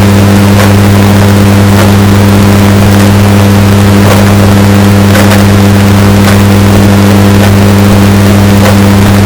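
Washing machine running, heavily bass-boosted and distorted into a loud, steady, buzzing hum, with a sharp click or knock about once a second.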